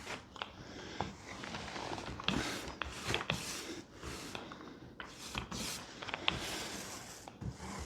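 Paper rustling and being rubbed down by hand: irregular soft swishes with a few small clicks of handling.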